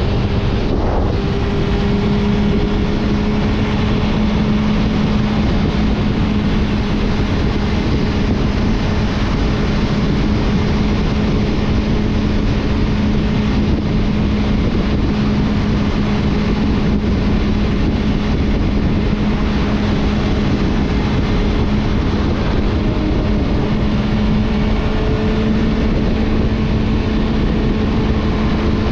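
Suzuki GSF 650 Bandit's inline-four engine running through an Akrapovic exhaust while riding, its note holding a steady pitch under a constant rush of wind noise.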